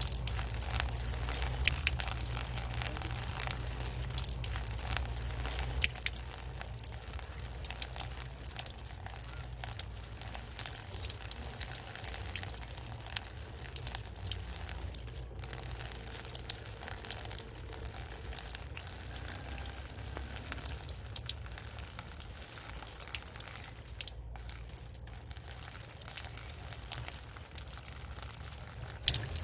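Steady rain: a dense crackle of drops hitting a surface, with a low rumble underneath.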